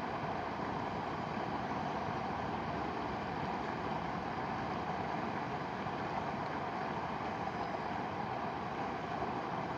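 Mountain river rushing, a steady even roar of flowing water.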